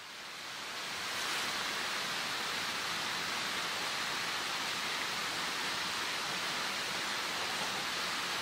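Steady rushing water noise with no distinct drops or splashes, fading in over the first second and then holding even.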